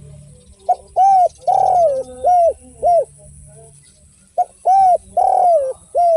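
Derkuku (spotted dove) cooing in two phrases. Each phrase opens with a short note, then runs into a string of deep arched coos, one of them held longer. The second phrase starts about four and a half seconds in.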